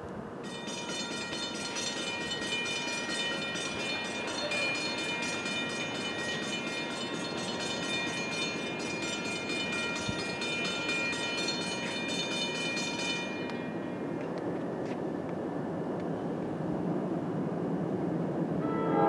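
A train approaching: a low rumble builds slowly, getting louder near the end. Over it, a high ringing with a fast pulse starts about half a second in and cuts off abruptly a little past the middle.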